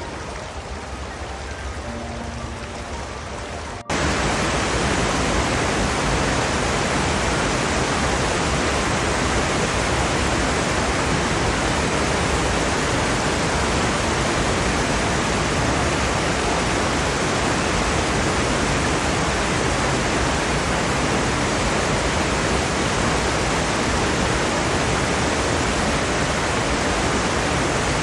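Heavy rain falling in a steady, even rush. About four seconds in it cuts abruptly to a louder, denser downpour that holds steady.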